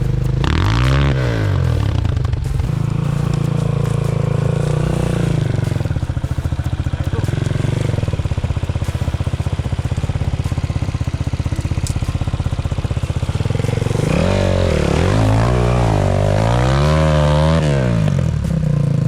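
Enduro motorcycle engine idling, with a quick rev about a second in and a string of rev blips rising and falling near the end.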